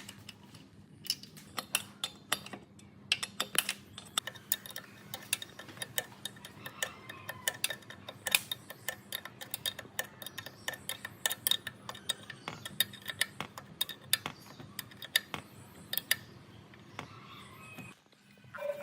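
Rapid, irregular sharp clicks and taps, several a second, over a steady low hum; they stop shortly before the end.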